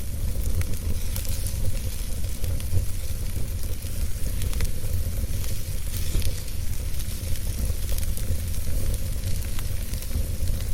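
Wood fire burning steadily with a low rumble of flame and scattered sharp crackles and pops.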